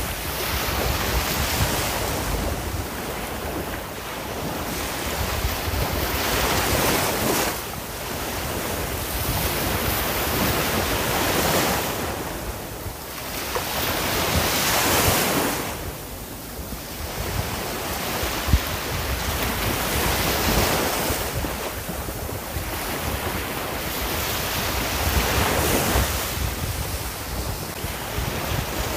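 Ocean waves breaking and washing on the shore, the surf swelling and ebbing every few seconds, with wind buffeting the microphone.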